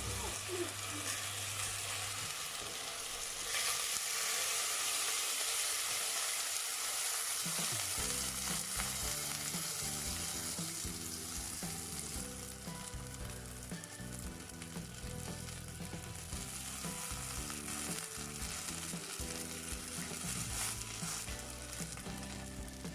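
Chicken sizzling in a hot cooking pot, a steady frying hiss that swells louder about four seconds in and eases off again a few seconds later.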